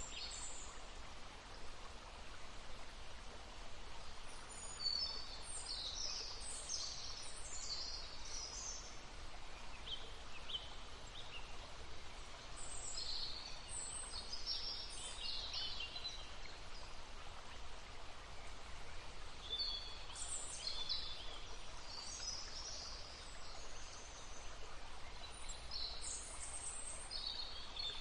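Songbirds singing in short bouts of quick, high chirping phrases, a few seconds apart, over the steady murmur of a flowing stream.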